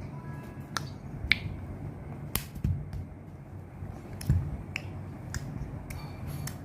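A series of sharp, irregular clicks and taps, about one or two a second, over a low steady hum.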